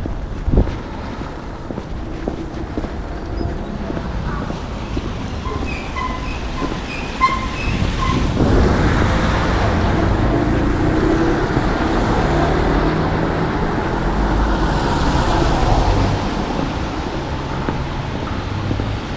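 Street traffic rumble, with a vehicle passing close by that swells up about halfway through and fades away near the end. A few short high beeps sound just before it.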